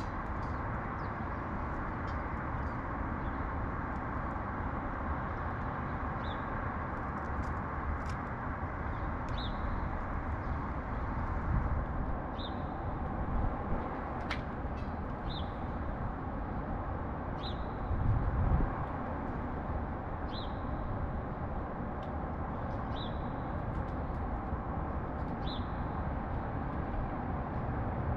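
Steady city traffic hum, swelling twice as vehicles pass, with a small bird giving one short high chirp every two to three seconds.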